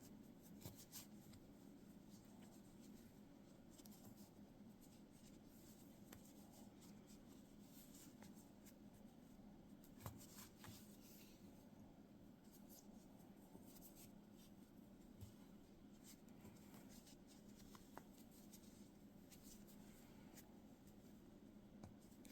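Near silence with faint scratching and small clicks of a crochet hook drawing yarn loops through for a mini bobble stitch, over a low steady room hum.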